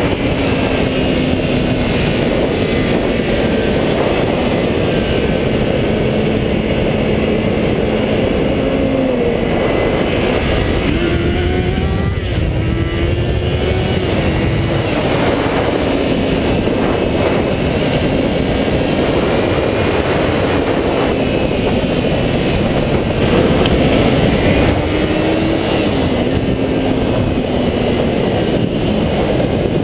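400cc motorcycle engines running at high revs, with wind rushing over the microphone. The engine note climbs and drops abruptly several times as gears are shifted.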